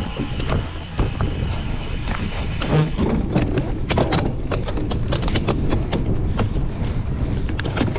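Cyclocross bike ridden hard over rough ground: a steady rumble of tyres and wind, with quick rattling clicks and knocks from the bike from about three seconds in.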